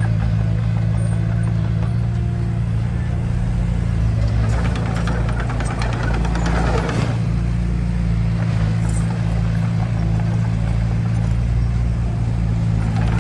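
Bulldozer's diesel engine running steadily, with a louder rush of noise that swells and fades in the middle.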